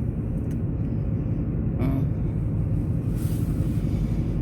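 Steady low rumble of a car driving, heard from inside the cabin, with a brief murmur about two seconds in.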